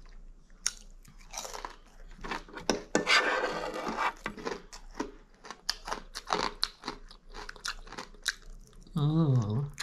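Close-up chewing and crunching of food, with many sharp crunches and mouth clicks. A short vocal sound comes near the end.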